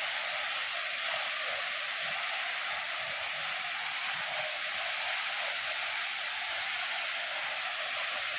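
Waterfall's falling water making a steady, unbroken rushing hiss.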